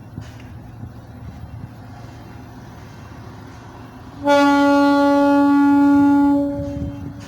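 A ship's horn sounds one long blast, starting suddenly about four seconds in, holding steady for a little over two seconds and then fading out, over a low rumble.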